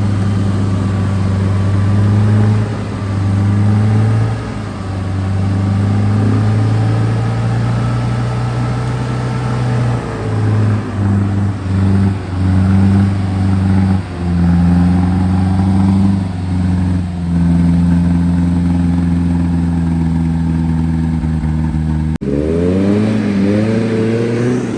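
Off-road 4x4 vehicle engine running hard, its revs held up with dips and rises. After an abrupt break near the end it revs up again.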